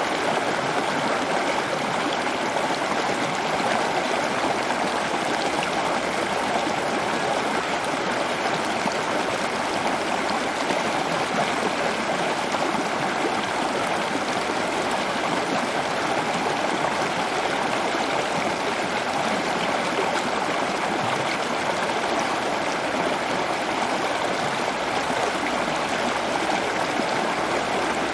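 Steady rush of running water, like a stream or small waterfall, without a break.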